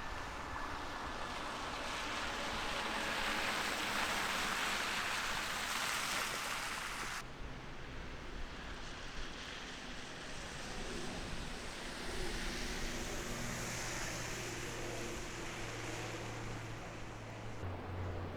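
Snowstorm street ambience: a broad rushing hiss swells and then cuts off abruptly about seven seconds in, followed by a low steady engine hum from traffic.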